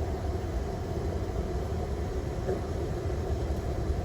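Steady low rumble and hum inside an airliner cockpit on the ground before takeoff: engine and air-system noise with no distinct events.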